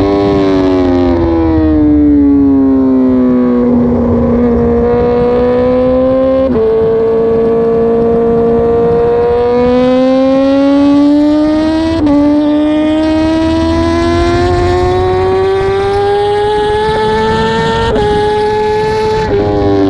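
BMW S1000RR inline-four superbike engine at racing speed, heard from an onboard camera. The engine note falls as the bike slows over the first few seconds, then climbs again through the gears, with several sudden pitch steps at the gear changes.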